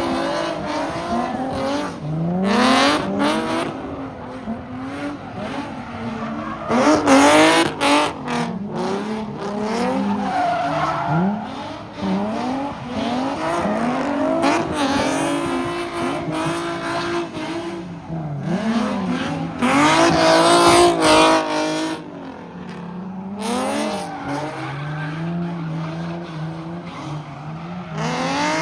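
A car spinning in a pit: its engine revs up and down over and over while the tires squeal. The loudest surges come about 7 seconds in and again about 20 seconds in.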